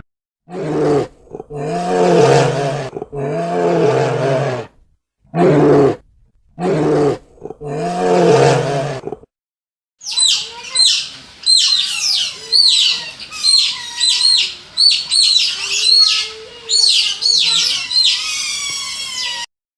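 A large animal roaring: about six rough calls, each up to a second and a half long. After a short silence, a bird takes over with rapid high chirps, about two a second, ending in a fast trill.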